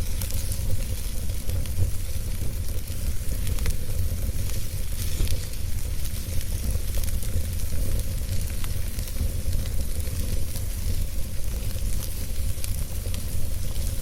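Wood fire burning, with a steady stream of small sharp crackles and pops over a low rumble of the flames.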